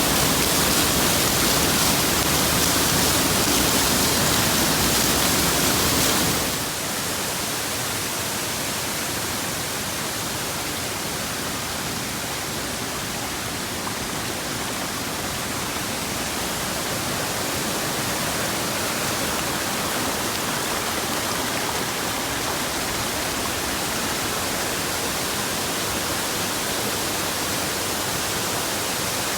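Waterfall rushing, a steady hiss of falling water. About six seconds in it drops a little in level and loses some of its low rumble.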